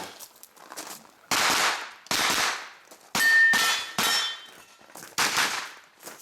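Five shots from a pistol-caliber carbine, fired about a second apart, with a steel target ringing after the third and fourth hits.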